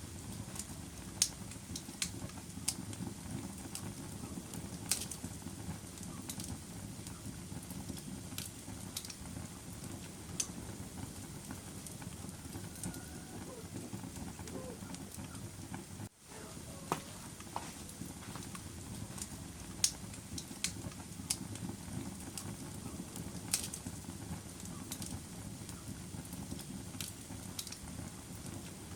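Wood fire burning in a fireplace: a steady low hiss and rustle with sharp, irregular crackles and pops. The sound cuts out for an instant about halfway through.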